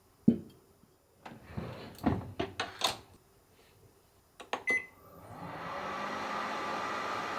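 Microwave oven being loaded and started: a knock, a run of clicks and knocks, quick button clicks with a short beep about four and a half seconds in, then the oven starts running with a steady hum.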